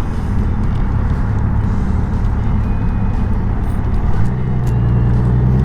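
Honda Gold Wing's flat-six engine running under way, with wind and road noise. About four seconds in, a steady engine note comes up and the sound gets a little louder.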